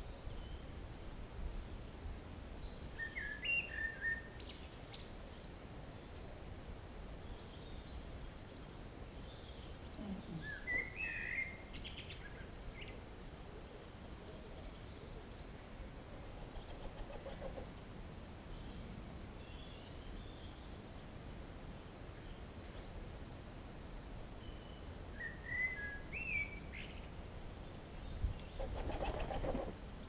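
Birds chirping and calling in three short bouts several seconds apart, with fainter high chirps in between, over a steady low background noise. A brief noisy burst near the end.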